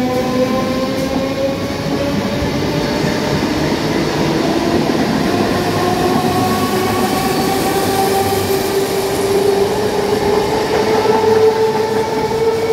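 Electric multiple-unit (EMU) suburban local train pulling out past the platform, picking up speed. Wheels rumble steadily on the rails under a motor whine that slowly rises in pitch.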